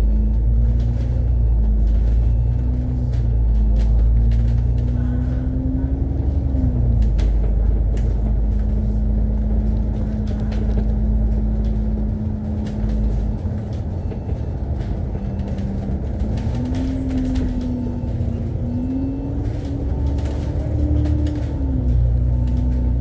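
Double-decker bus engine and drivetrain heard from inside the cabin on the move, over a steady low rumble. The engine note climbs for several seconds and drops off about seven seconds in, holds steady, then climbs again from about sixteen seconds in and drops off near the end.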